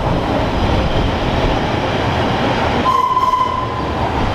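Electric narrow-gauge train running on the rails with a steady rumble. About three seconds in there is a short, steady high tone lasting under a second.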